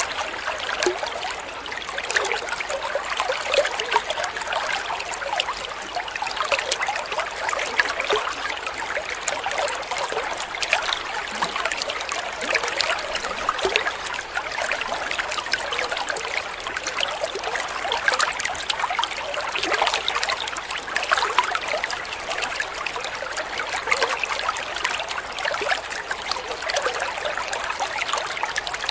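Water trickling and babbling steadily, a small stream running over stones.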